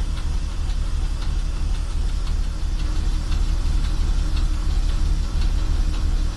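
ChME3 diesel shunting locomotive's engine running with a heavy low throb, with light ticks about once a second.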